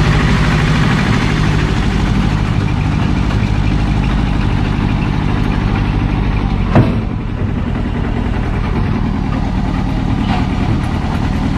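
A vehicle's engine running steadily under way, with a low even hum. There is one sharp knock about seven seconds in.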